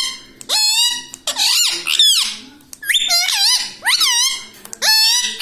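Pet parrot giving a run of short, high-pitched squeaky calls, about six or seven of them, each bending up and down in pitch.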